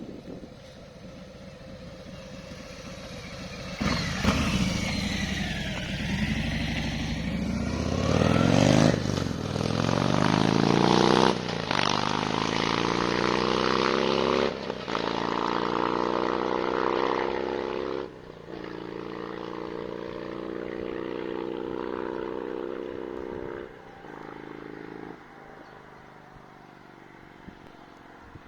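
Harley-Davidson Fat Bob's 114 cubic inch Milwaukee-Eight V-twin through a J&H aftermarket exhaust, accelerating at full throttle. The engine note climbs in pitch and breaks off briefly at each of several gear changes, then holds steady and drops away in steps near the end.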